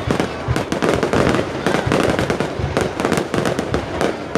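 Fireworks display: a dense, rapid run of bangs and crackling shell bursts, with no let-up.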